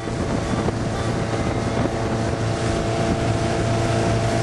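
Tahiti motorboat's engine running steadily under way, a constant hum with wind on the microphone.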